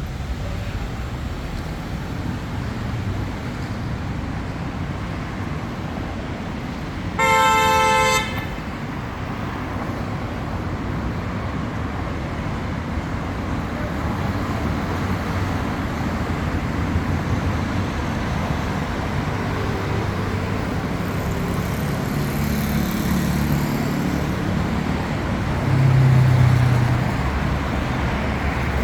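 City street traffic with a steady rumble of passing vehicles. About seven seconds in, a car horn sounds once for about a second, the loudest sound. Near the end a low engine hum swells briefly as a vehicle passes close.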